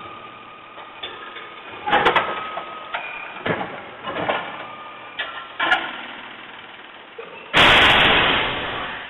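Garbage truck at work: a series of metal clanks and knocks, then a sudden loud rushing noise near the end that fades away over about a second and a half.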